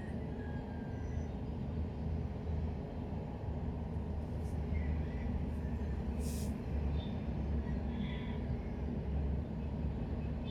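Steady low rumble of vehicle traffic, with a brief hiss about six seconds in.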